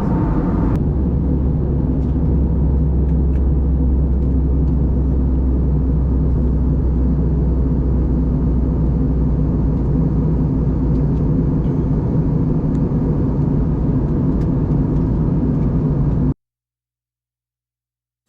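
Steady low rumble of a jet airliner heard from inside the cabin, with a constant low hum under it; it cuts off abruptly near the end.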